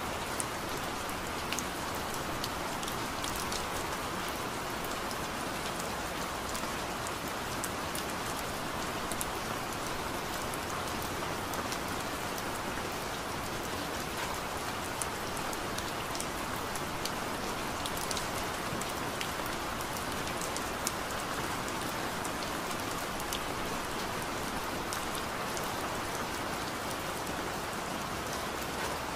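Steady rain, an even hiss with scattered sharper ticks of single drops.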